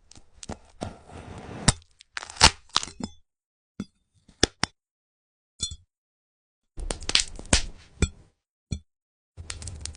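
A brittle, glassy fruit gel being cut, giving sharp cracks and crackling. The sound comes in several short bursts, with dead silence between them.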